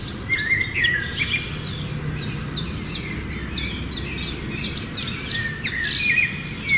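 Several songbirds chirping and singing at once, a rapid run of short, high chirps and quick downward-sweeping notes, over a steady low background rumble.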